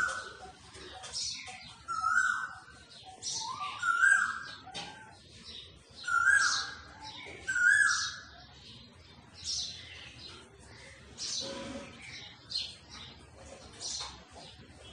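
Birds chirping and calling: a short call that holds its pitch and then dips repeats every second or two over the first half, with quick higher chirps throughout.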